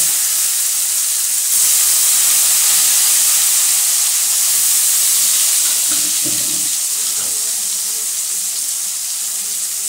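Chopped tomatoes sizzling in hot oil in a kadai: a loud, steady hiss that swells a little about a second and a half in, then slowly eases off.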